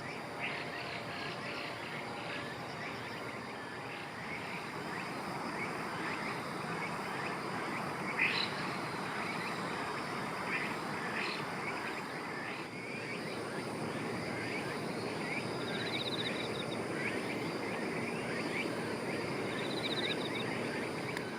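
Outdoor ambience of many small animal calls: short chirps repeating over a steady noisy background, with two brief buzzy trills near the end.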